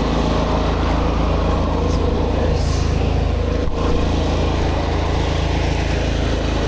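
Pressure washer's engine running steadily under load, with the hiss of the water spray over it.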